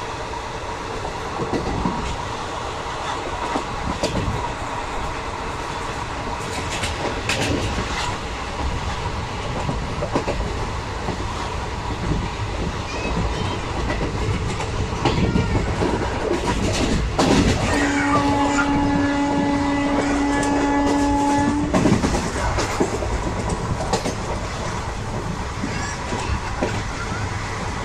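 Indian Railways express passenger coach running along the track, its wheels clattering over the rail joints, heard from inside the coach by the window. About two-thirds of the way through, a train horn sounds one steady blast of about four seconds.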